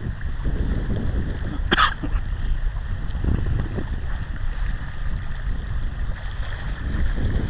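Wind buffeting the microphone as a steady low rumble, with one brief high-pitched sound about two seconds in.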